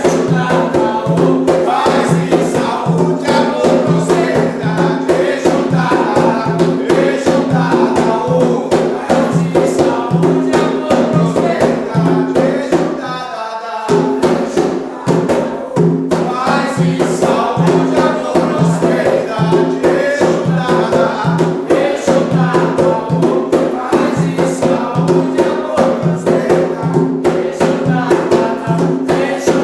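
Umbanda ponto to Exu sung by a group over hand drums and percussion, with a steady beat. The drums drop out briefly about halfway through.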